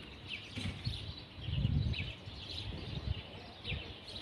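Small birds chirping now and then in the trees, over a low rumble that swells about a second and a half in.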